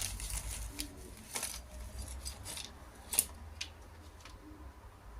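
Scattered light clicks and taps of small hard parts and a hand tool being handled.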